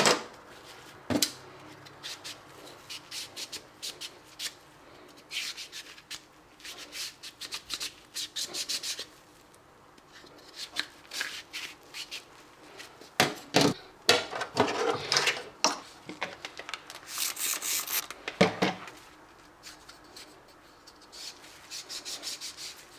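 Scrubbing and scraping on the plastic trim of a fridge glass shelf: quick rubbing strokes in bursts with short pauses.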